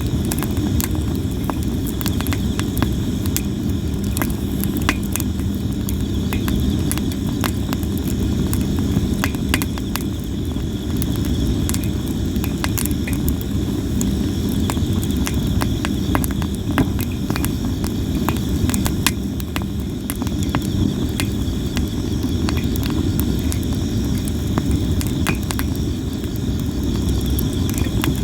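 Campfire of sawara cypress wood crackling and popping without a break, with many sharp snaps, over a steady low rumble. Insects chirp steadily in the background.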